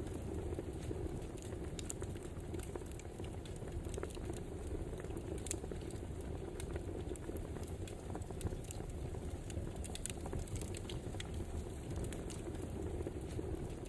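Wood fire crackling, with sharp irregular pops and snaps over a steady low rumble of burning logs.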